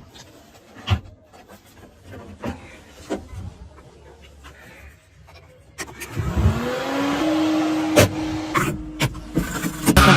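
A car: scattered light knocks at first, then about six seconds in its engine note rises sharply and holds at a steady higher pitch as it speeds up.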